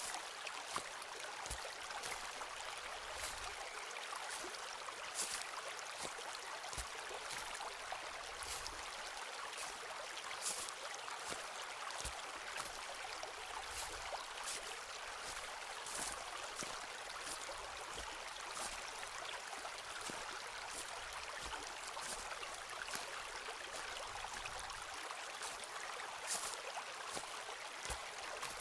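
Footsteps walking through a forest, with irregular crunches and crackles from leaves and twigs underfoot and an occasional duller thud, over a steady rushing hiss.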